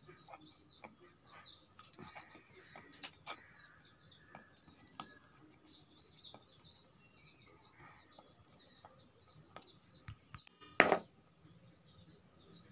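Small birds chirping again and again, with a few soft taps and one louder sharp knock near the end.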